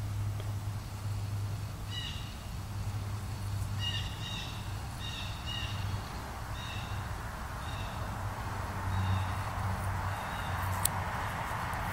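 A bird calling in the woods: short calls repeated about once or twice a second, starting about two seconds in. Under them runs a steady low hum, with a rushing noise that grows toward the end and a single sharp click near the end.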